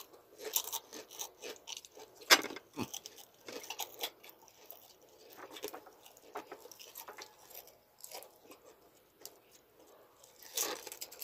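Close-up chewing and crunching of crispy chicharon (deep-fried pork rind): irregular crackly crunches, the loudest about two seconds in.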